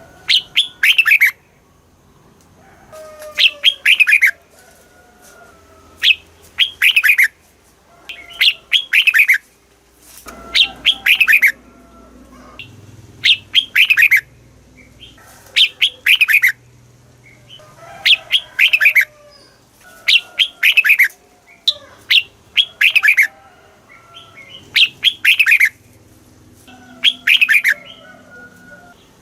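Red-whiskered bulbul singing: short, loud, bubbly phrases repeated about every two seconds, each a quick run of notes falling in pitch, with softer lower chirps between phrases.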